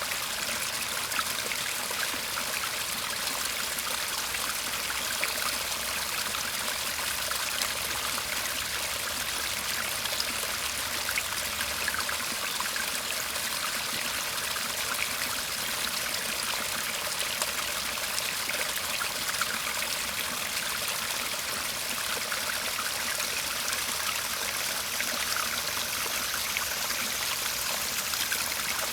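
Shallow stream in a Japanese garden murmuring and trickling steadily, an even rush of water with many small splashes.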